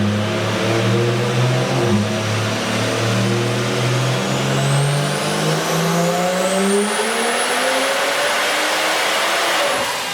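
BMW 135i's N54 3.0-litre inline-six running on a PTE 6266 single turbo. The engine note holds steady, then climbs steadily through the second half as the car accelerates, while a high turbo whine rises and then holds high until near the end.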